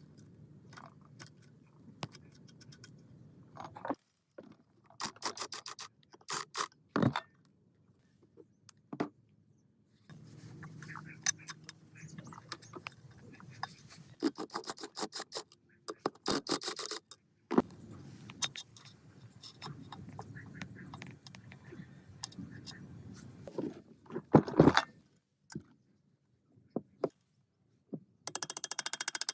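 Metal parts and hand tools being worked: a run of scrapes, clinks and rattles in several separate bursts, broken by brief silences.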